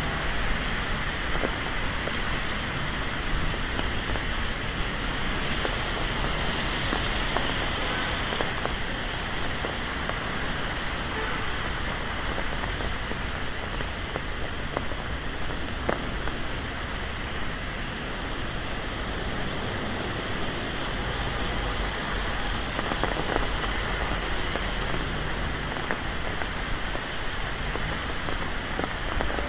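Steady rain falling on the street, an even hiss with a few scattered drop taps.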